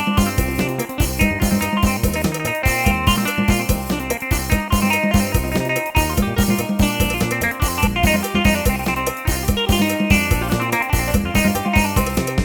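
Yamaha PSR-1000 arranger keyboard playing a Thai lai hae procession-style piece: a melody over drums and bass with a steady beat.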